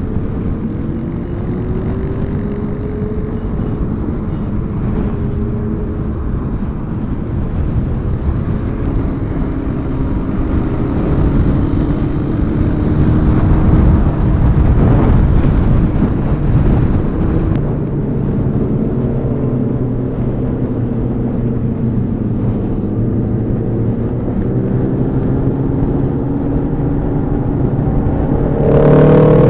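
Motorcycle engine running under way with wind rush on the microphone, its pitch rising and falling with the throttle and climbing sharply near the end as it accelerates.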